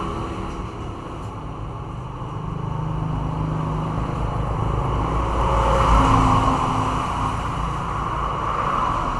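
A motor vehicle's engine running past, its rumble swelling to its loudest about six seconds in and then easing.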